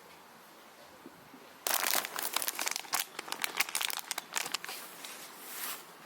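Plastic snack wrapper crinkling and being torn open, a dense run of crackles starting a little under two seconds in and tailing off near the end.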